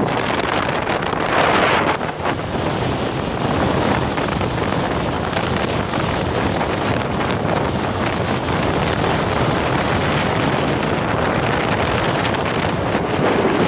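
Rough storm surf washing in, with strong wind buffeting the microphone. There is a louder rush of noise about one and a half seconds in.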